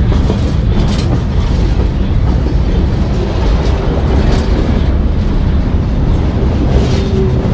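Freight train cars rolling directly over a camera set between the rails: a loud, steady low rumble with a few sharp wheel clacks.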